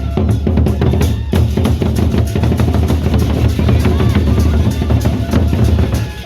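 Loud live procession music dominated by drums: a driving bass-drum and snare beat.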